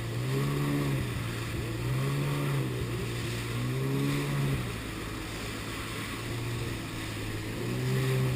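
Jet ski engine running, its pitch rising and falling in about four swells as the throttle is worked, over a steady rushing noise.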